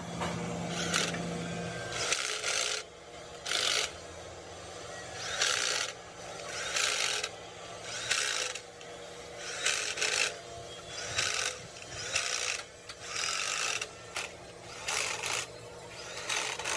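Hand tool scraping or filing in even strokes, about one every second and a half, with a low hum in the first two seconds.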